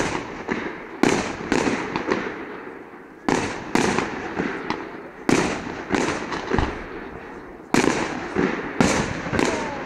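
Aerial firework shells bursting one after another, with about fifteen sharp bangs coming in clusters. Each bang trails off in a long echo.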